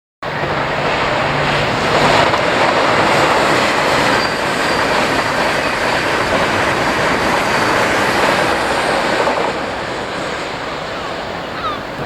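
Passing train: a steady loud rush of wheel-on-rail noise that starts abruptly, with a faint thin high wheel squeal in the middle, easing off near the end.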